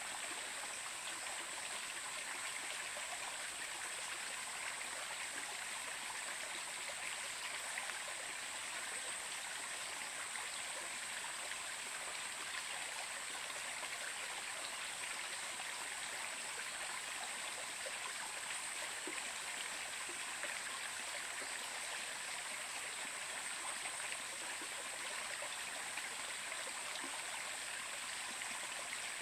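Stream of water running steadily, an even, unchanging sound of flowing water.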